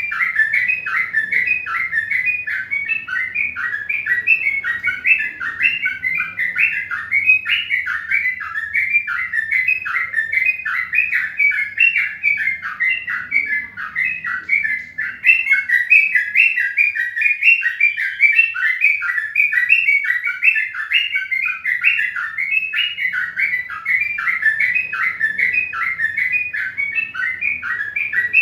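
Small birds chirping continuously: a dense, unbroken run of short, falling chirps, several a second.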